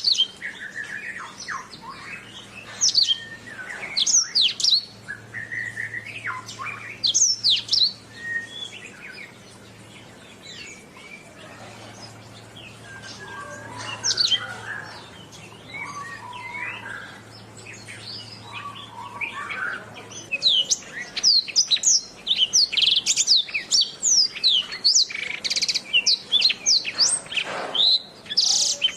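Domestic canary singing: quick high whistles and sweeping chirps, a softer stretch of lower warbling in the middle, then a dense, loud run of rapid chirps over the last several seconds.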